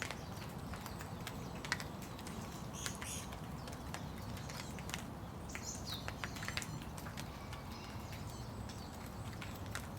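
Steady rain, with many single drops ticking sharply close by. A bird chirps briefly about three seconds in and again around six seconds.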